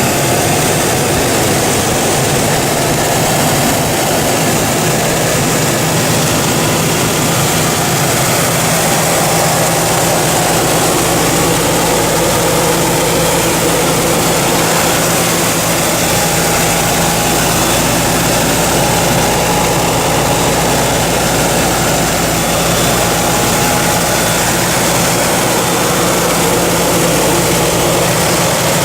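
1972 Chevrolet Nova's engine idling steadily.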